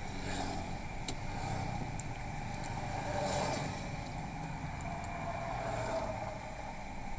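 Low, steady background noise of a large hall, with a few faint clicks scattered through it.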